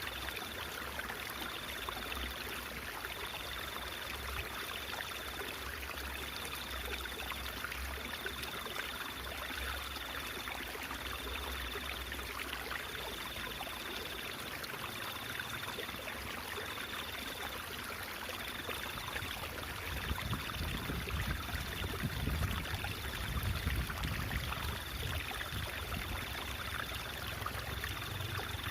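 Water trickling and babbling steadily in a stream. A high, thin tone keeps breaking off and resuming about once a second. A low rumble grows stronger about two-thirds of the way in.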